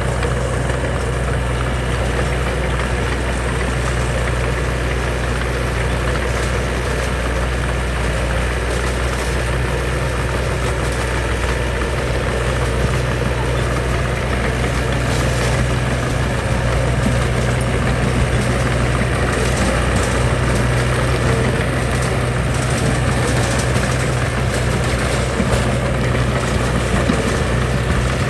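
Diesel engine of a heavy construction machine running steadily, a constant low hum, with light clicks and knocks in the later part.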